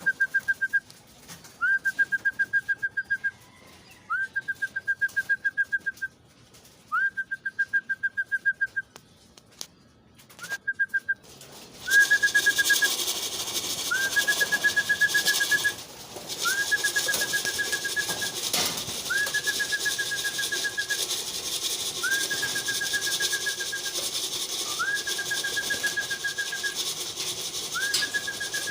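A hand whistle blown in about a dozen trilled blasts of one to two seconds each, at a steady pitch and about every two and a half seconds: a pigeon fancier's call for his birds to come into the loft. From about twelve seconds in a steady hiss runs behind the blasts.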